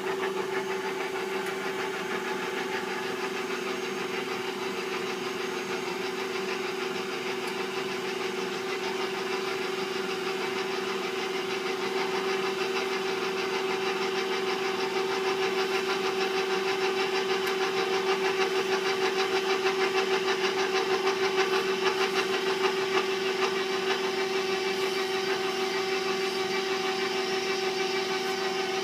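Electric mixer motor running steadily at low speed while mixing cookie dough, a continuous hum that switches on right at the start and grows slightly louder partway through.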